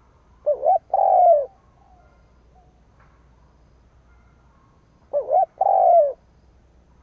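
Spotted dove (cu gáy) decoy bird cooing twice, about four and a half seconds apart: each call is a quick double note followed by a longer, falling coo.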